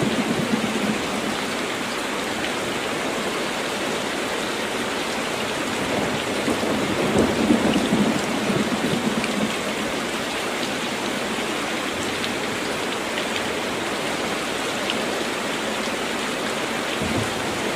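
Heavy, steady rain with a deep roll of thunder that swells and fades around the middle.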